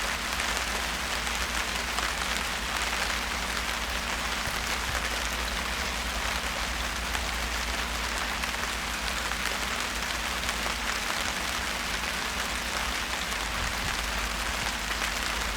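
Steady rain falling, a dense, even patter of drops on surfaces, with a low steady rumble underneath.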